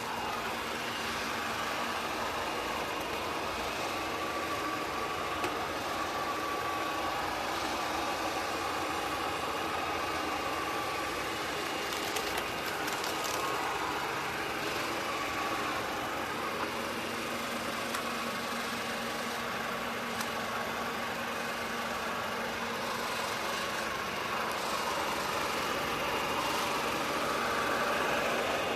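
ECOVACS DEEBOT N20 PRO PLUS robot vacuum cleaner running, a steady hum from its motor and suction fan with a few faint ticks.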